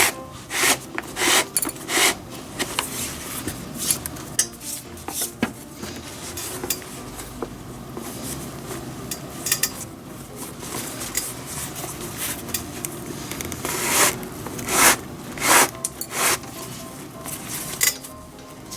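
Glove relacing handwork: irregular clicks, clinks and rubbing scrapes of metal lacing tools and leather lace. The loudest clicks come in a cluster in the last few seconds.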